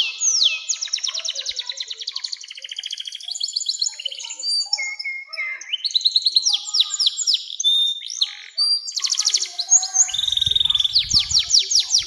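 Domestic canary singing a long, unbroken song: rapid rolls of repeated downward-sweeping notes alternating with faster buzzing trills and a few short steady notes, switching to a new phrase every second or two. A brief low rumble sounds under the song near the end.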